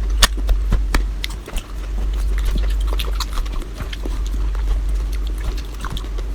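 Close-miked eating: a person chewing and smacking food fast, with many quick, irregular wet clicks over a steady low hum.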